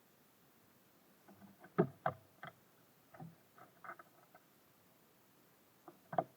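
Small birds tapping and pecking on a bird feeder: irregular light knocks, a cluster in the first half and two more near the end.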